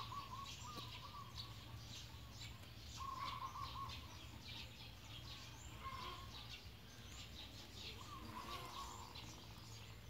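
Birds calling: one repeats a short warbled phrase about every three seconds while many short, high chirps sound throughout, over a faint steady low hum.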